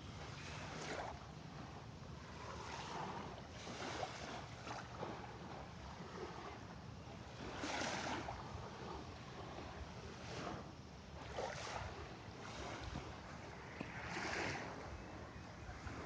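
Sea waves washing in irregular surges every second or two, with wind rumbling on the microphone.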